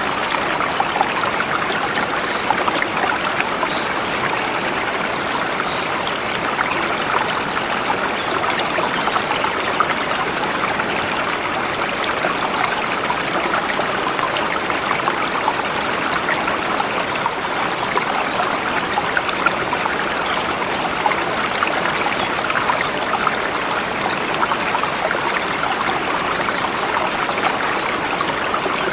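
Forest river flowing over rocks, a steady rushing and babbling of water.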